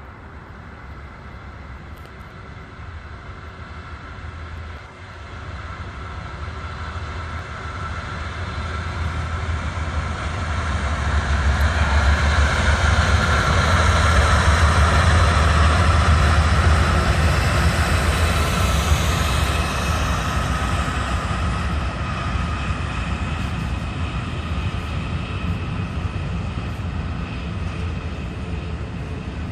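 Diesel locomotives hauling an intermodal freight train, approaching and passing. Their deep engine drone builds to its loudest about halfway through, then eases off as the train rolls by.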